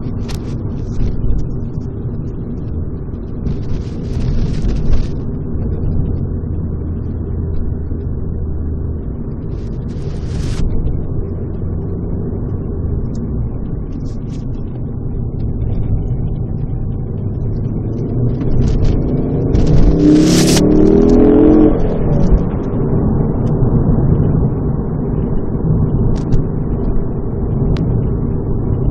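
Ford ST with its exhaust resonator removed, heard from inside the cabin while driving: a steady low exhaust drone, with the engine accelerating and the pitch rising about two-thirds of the way through, where it is loudest. There are a few short hissy noises along the way.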